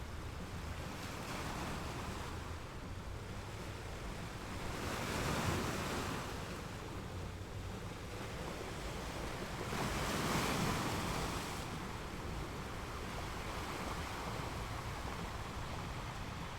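Ocean waves washing on the shore in a steady hiss of surf, with two bigger waves breaking about five and ten seconds in.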